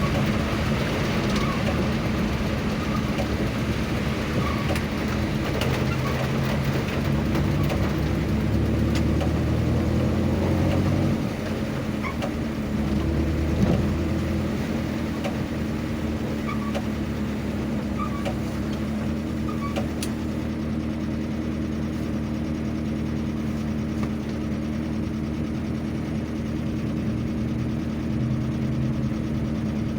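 Vehicle engine running steadily on the road, its low rumble easing off about eleven seconds in.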